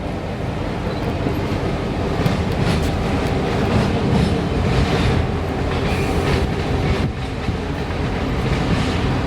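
Freight train cars rolling past, a steady rumble of steel wheels on rail with clickety-clack from the wheels over rail joints.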